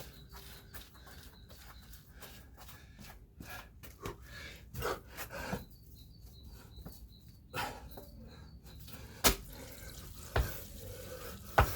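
Feet landing on the ground during burpees and jump squats: scattered soft scuffs and taps, then three louder thuds about a second apart near the end.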